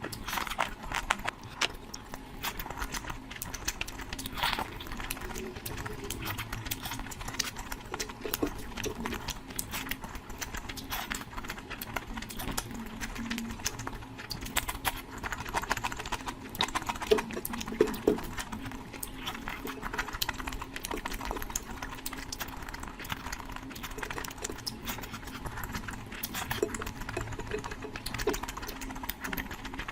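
Close-miked eating sounds: wet chewing and rapid, irregular mouth clicks and smacks from someone eating curry, going on without a break.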